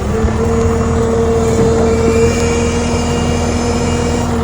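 Tractor and round baler running, with a steady whine held over the engine for about four and a half seconds and stopping just after. It comes as the machine struggles with a bale that is probably too big and gets caught.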